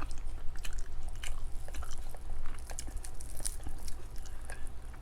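Close-miked chewing and biting, a person eating with many small irregular wet clicks and smacks of the mouth.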